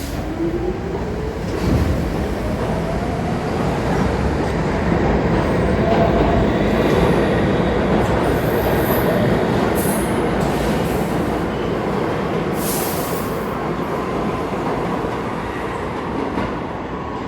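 R46 subway train running on the rails, its motors whining up in pitch over the first few seconds as it picks up speed, under a steady rumble of wheels. Short high wheel squeals come through around the middle.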